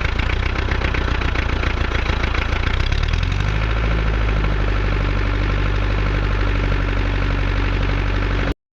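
International B275 tractor's four-cylinder diesel running steadily with a diesel knock, having just been coaxed into life on a cold start. About three seconds in its engine note shifts slightly and settles, and the sound cuts off abruptly near the end.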